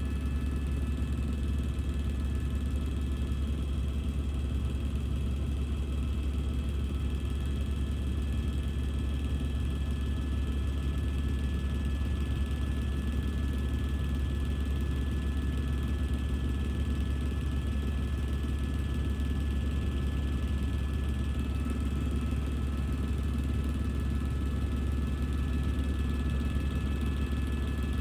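Helicopter in flight heard from on board: a steady deep rotor rumble with a constant high turbine whine over it.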